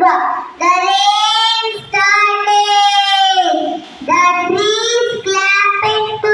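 A child singing, holding long notes, the longest for about a second and a half near the middle.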